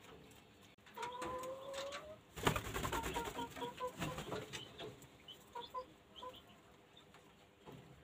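Bird calls: a drawn-out call rising slightly in pitch about a second in, a sudden brief rustling burst, then quick runs of short repeated notes.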